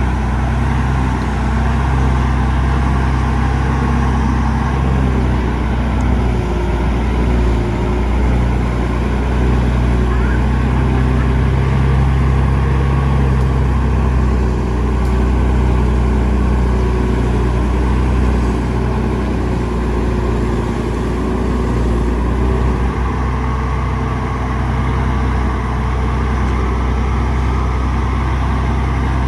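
Heavy diesel engine of earthmoving machinery running steadily, with no clear change in speed.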